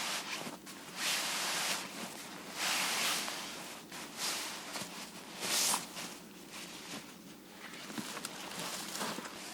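Irregular rustling and crunching bursts, each up to about a second long, like dry leaves or forest litter being disturbed.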